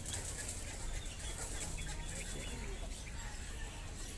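Many caged birds chirping and calling, short scattered chirps over a steady low background rumble.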